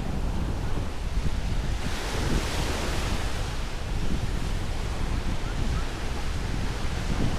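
Ocean surf washing onto a sandy beach, with a wave's hiss swelling about two seconds in, and wind rumbling on the microphone.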